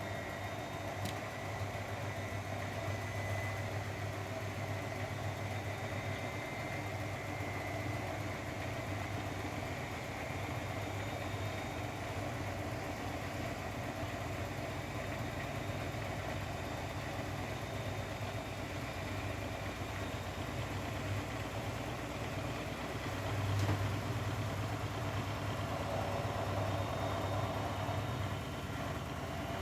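Grundig front-loading washing machine running with a steady motor hum, swelling slightly about three quarters of the way through.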